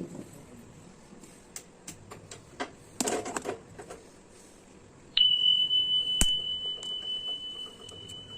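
Several light clicks and taps, then a single high ringing tone that starts sharply about five seconds in and slowly fades, with one sharp click a second after it starts.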